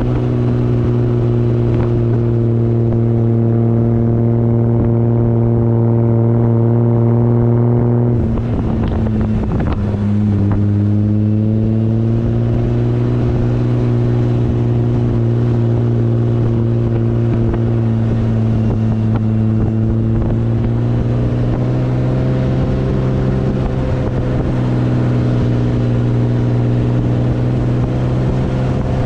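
Toyota Land Cruiser HJ45's diesel engine running steadily under load while driving. About eight seconds in the note breaks briefly, dips lower and then climbs back up, as with a gear change.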